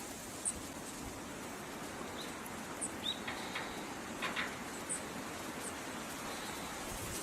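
Small songbirds giving short, high, thin call notes, scattered at intervals over a steady background hiss.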